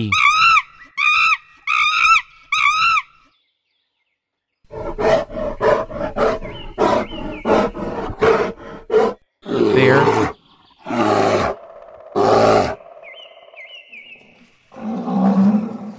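Monkey calls: a run of repeated pitched calls, then a fast chattering series of about four calls a second. These give way about nine seconds in to a bear roaring three times, each roar about a second long and the loudest sound of the stretch.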